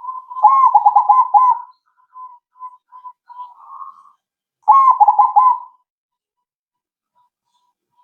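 Crossbred zebra dove (perkutut) cooing. It gives two rapid rolling trilled phrases about four seconds apart, with softer single coos between them.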